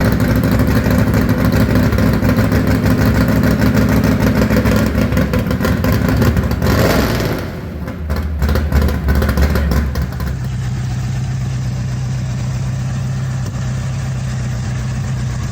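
A vehicle engine running loudly for about seven seconds, then a short clattering stretch, then settling to a steadier, quieter run from about ten seconds in.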